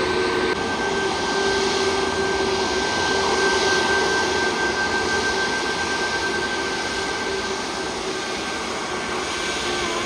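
Narrow-body jet airliner's engines running: a steady rush with a thin high whine, growing louder to a peak about three to four seconds in, then slowly fading.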